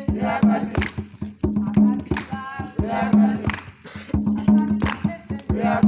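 A group of voices singing over steady rhythmic drumming, several strokes a second.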